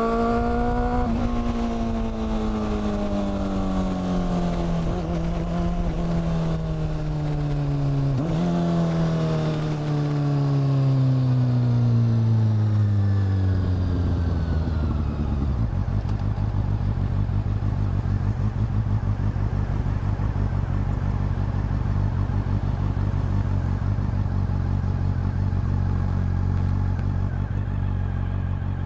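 Honda CB400 Super Four's inline-four engine and exhaust slowing down, the engine note falling steadily with a couple of brief blips, then settling into a steady idle about halfway through.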